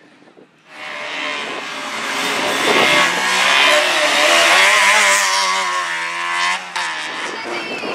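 Slalom competition car's engine under hard acceleration, revving up and down through the course. It cuts in abruptly under a second in, and its pitch drops sharply near the end.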